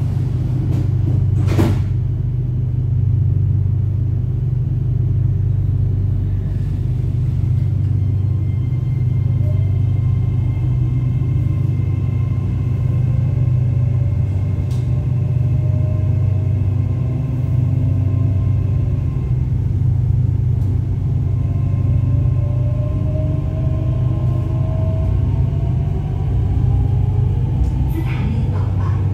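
Red Line electric commuter train heard from inside the carriage as it pulls away and gathers speed: a steady low rumble with whines that climb in pitch several times from about ten seconds in. A single sharp knock about a second and a half in, and a few clicks near the end.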